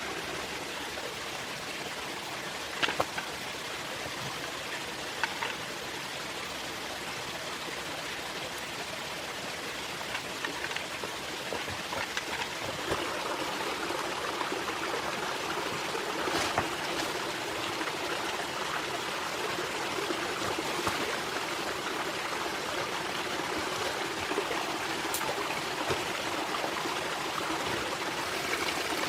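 Steady rush of flowing water, like a forest stream, with a few sharp clicks scattered through; it grows slightly louder about 13 seconds in.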